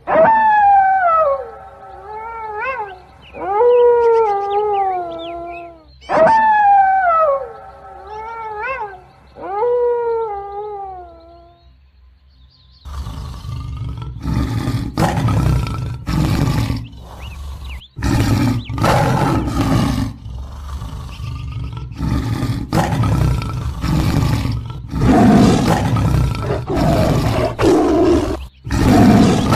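A grey wolf howling: several long howls, each sliding down in pitch. A little before halfway through it gives way to a tiger roaring and growling in repeated rough bursts.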